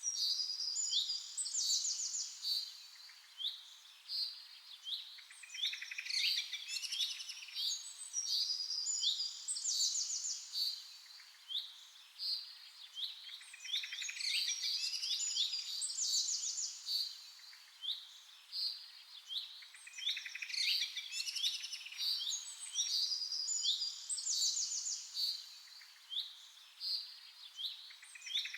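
Songbirds chirping and singing, with high-pitched chirps and rapid trills coming in clusters every few seconds.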